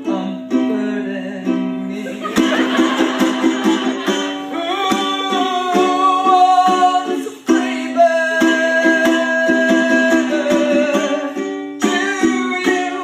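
Ukulele strummed in a quick, steady rhythm, with a long held melody line wavering over the chords in the middle.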